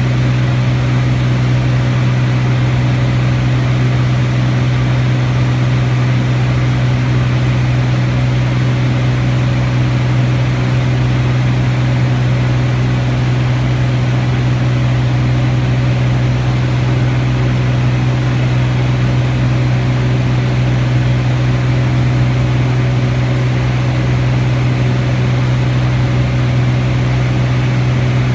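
Piston aircraft engine and propeller droning at a constant, steady pitch and level, heard close up as from on board in flight.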